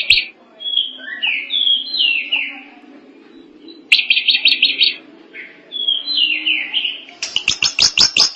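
A drongo singing: a varied song of short, falling whistled notes broken by fast runs of repeated chattering notes, about ten a second, one about four seconds in and another starting near the end.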